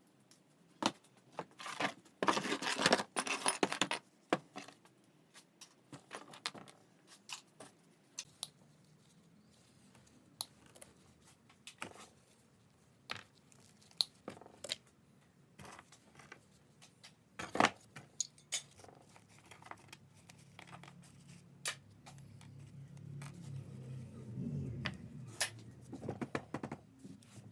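Scrap metal being handled: scattered light clinks, knocks and rattles, with a denser rustling clatter about two to four seconds in and a low hum building near the end.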